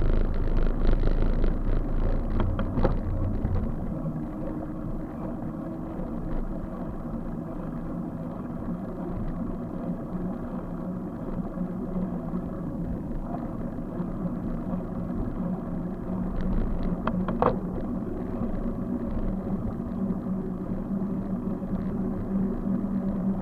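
Steady road rumble while riding along, heavier for the first few seconds, with a low hum growing toward the end and two sharp clicks.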